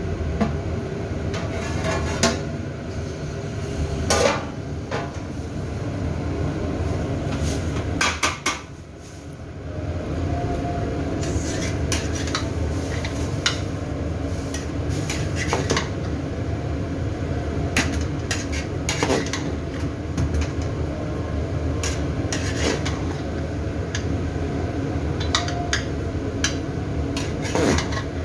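Metal pots and utensils clattering, with scattered clinks and knocks over a steady low hum. The hum dips briefly about eight or nine seconds in.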